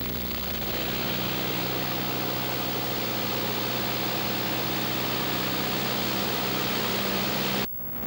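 Cessna light aircraft's engine and propeller droning steadily in flight, with rushing air noise over it, as heard from inside the cabin. The sound cuts out abruptly for a moment near the end.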